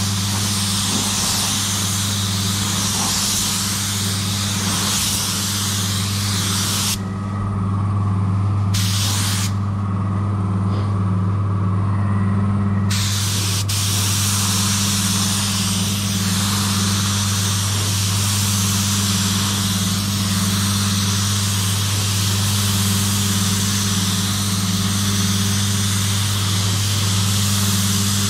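Spray gun hissing as paint is sprayed over a steady low machine hum; the spraying stops twice in the middle, for a couple of seconds each time, while the hum runs on.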